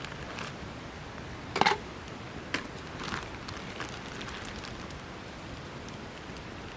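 Wood campfire crackling: a steady hiss with scattered small pops, and one louder snap about one and a half seconds in.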